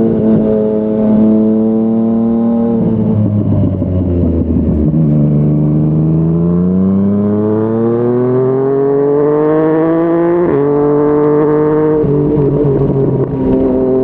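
Yamaha MT-09's three-cylinder engine through a Yoshimura R55 slip-on exhaust, holding revs and then climbing steadily in pitch for about five seconds under acceleration. An upshift drops the pitch about ten seconds in, and there is another gear change soon after.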